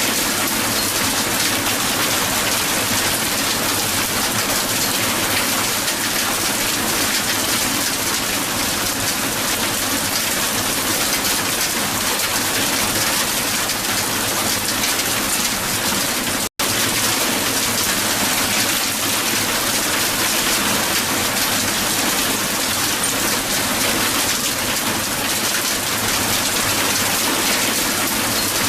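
Heavy hail falling steadily, a dense patter of hailstones striking the ground. It drops out for an instant a little past halfway through.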